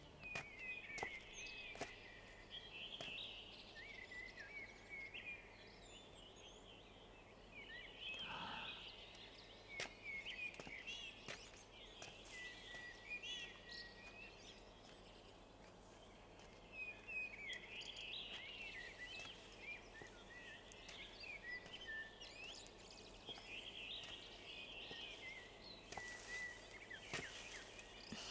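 Small birds chirping and twittering in a continual chorus of short rising and falling calls, with a few brief lulls.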